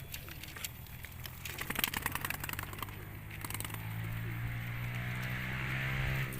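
A motorcycle engine running and growing louder over the last few seconds, after a short patch of rapid clicking.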